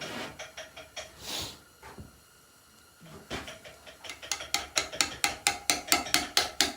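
Hand carving of letters into a stone headstone: a mallet striking a chisel. The taps start about three seconds in and settle into a steady rhythm of about four strikes a second.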